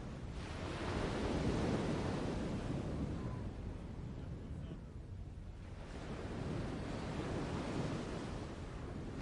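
Sea waves washing onto a shore: two surges of surf, the first about half a second in and the second about six seconds in.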